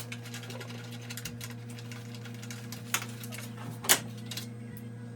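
Irregular clicks and clinks of hand tools working on metal engine parts, with a louder sharp clink about four seconds in, over a steady low hum.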